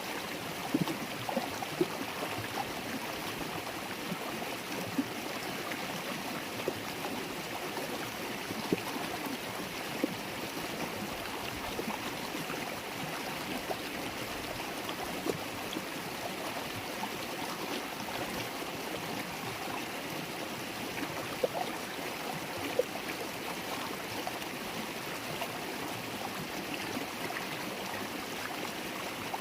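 River water babbling over stones: a steady rush with little splashes and plinks now and then.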